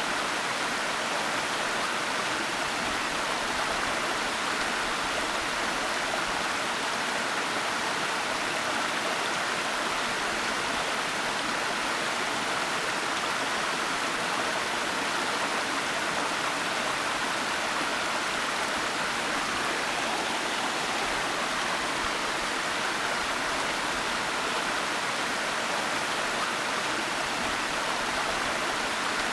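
Waterfall water falling and rushing, a steady, unbroken hiss of white water.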